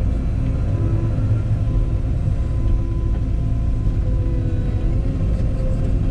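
Cat 314E excavator's diesel engine running steadily while the machine works, a deep rumble with a faint steady whine above it.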